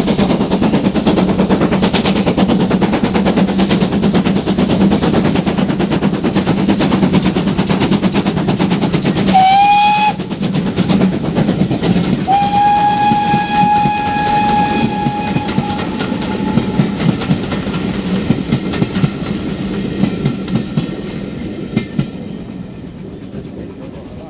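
A steam locomotive and its train passing at speed, wheels clattering over the rail joints. The locomotive gives a short whistle, rising slightly at the start, about nine seconds in, then a long whistle lasting about four seconds. The clatter then fades as the train draws away.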